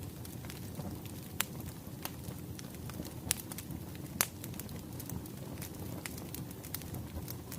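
Wood fire crackling: a steady low rumble of burning logs with sharp pops and snaps scattered irregularly, a few louder snaps standing out, the loudest about four seconds in.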